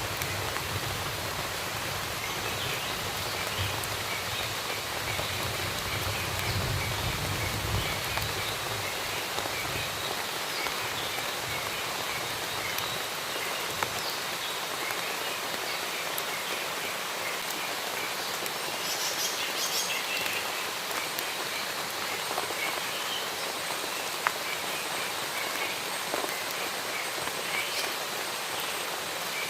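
Steady rain falling, with a low rumble, like distant thunder, that fades out about ten seconds in. Faint, scattered bird chirps sound through the rain, along with an odd sharp drop or tick.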